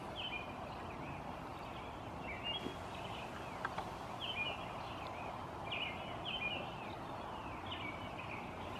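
Small birds chirping: short, high calls, often two or three close together, repeating about every second over a steady background hiss.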